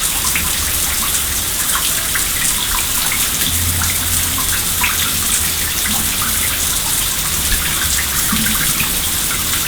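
A steady rush of water with a low rumble underneath, cutting off suddenly at the end.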